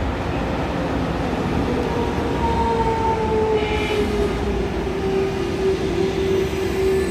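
KTX-I high-speed train pulling into the station and slowing: a steady rolling rumble with a whine that slowly falls in pitch, and a brief higher squeal about four seconds in.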